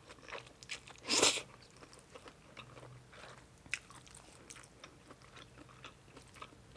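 A person biting and chewing food, with one louder crunchy bite about a second in, then many small wet chewing clicks.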